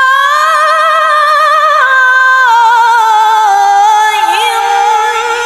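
A woman reciting the Quran in the melodic tilawah style, holding one long, ornamented vowel with vibrato that steps down in pitch partway through.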